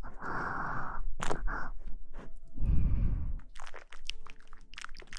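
Close-up ASMR rustling and crackling: a dense rustle at the start, a dull low rub about two and a half seconds in, then a run of quick crackles.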